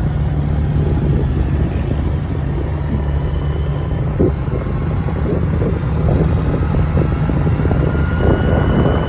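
Motorbike under way: the engine running steadily under heavy wind buffeting on the microphone.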